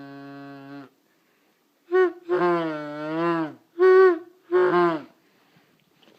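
Weird sounds made by a person's voice for a dog: a steady held note that stops just under a second in, then after a short silence four louder wavering calls, the second one long and sliding up and down in pitch.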